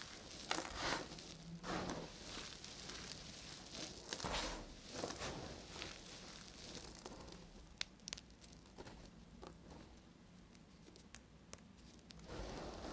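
Knife cutting through dry bar soap: crunching, scraping strokes for the first few seconds, then a quieter stretch with scattered small clicks, and more cutting strokes near the end.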